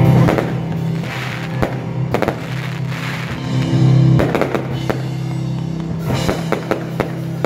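Aerial fireworks bursting in a string of sharp bangs, heard over music with a steady low, sustained bass.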